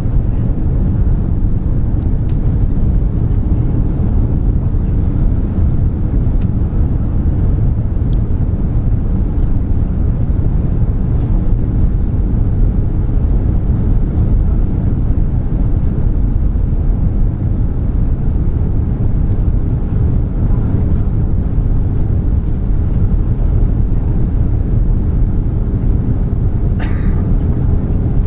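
Steady low rumble of cabin noise inside a Lufthansa Airbus A340 on final approach: engine and airflow noise heard from the passenger cabin. A faint steady hum joins in during the last third.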